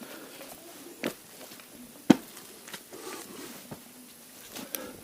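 Footsteps of a person climbing a muddy slope: separate heavy steps, about one a second.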